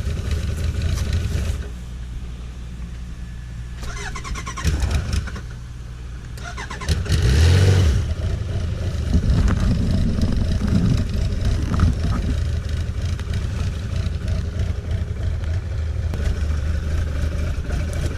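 Motorcycle engine idling, then dying away about two seconds in; about seven seconds in it is started again, catches with a short rev, and settles back into a steady idle. It is an engine that stalls easily, above all when cold.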